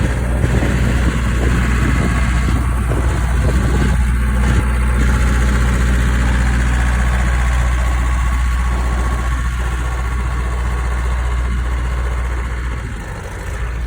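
Ice cream truck's engine idling with a steady low hum; it eases off slightly near the end.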